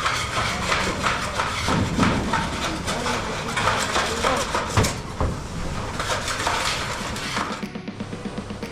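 Irregular knocks and clatter, with faint voices mixed in; near the end it gives way to music with a steady drum beat.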